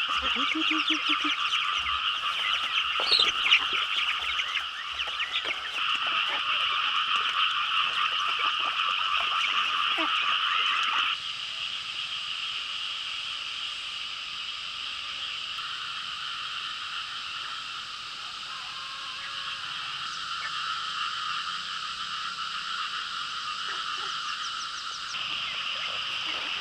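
A dense chorus of frogs calling continuously in two bands of pitch, one high and one lower. It drops suddenly to a quieter level about eleven seconds in.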